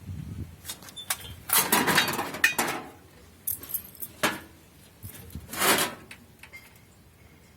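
Pieces of scrap metal clanking and scraping as they are handled, in several uneven bursts. The longest clatter comes about a second and a half in, with shorter clanks after it.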